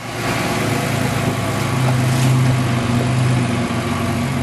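Twin-turbo V6 Ford Mustang engine idling at a steady pitch, fading in at the very start.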